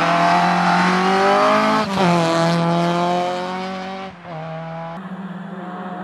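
VW Golf Mk2 rally car engine pulling hard, its pitch climbing, dropping sharply at an upshift just before two seconds in and climbing again. About four seconds in the driver lifts off and the engine runs lower and quieter.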